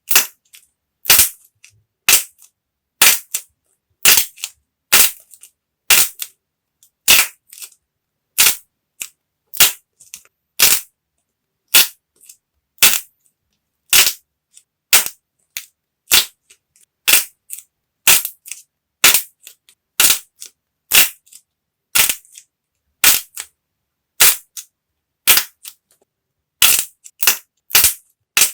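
Dried, hardened modelling clay being cracked apart: sharp snaps about once a second, sometimes two in quick succession, with faint crumbling crackles between them.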